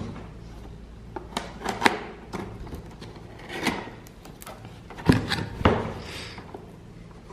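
Cardboard box and packaging being handled and opened: irregular knocks, clicks and short scraping rustles, with sharper knocks near the start, around two seconds in and again a little past five seconds.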